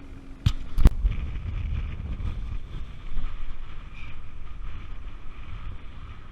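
Strong wind buffeting the microphone while choppy water rocks a small fishing boat, with two sharp knocks near the start.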